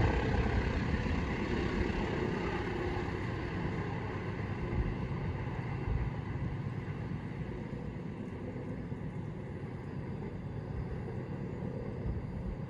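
Passing train's low rumble slowly fading as it moves away.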